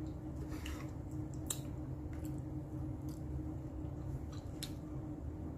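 A person chewing soft food (pancake and fried egg) with closed-mouth chewing and a handful of short, scattered mouth clicks, over a steady low hum.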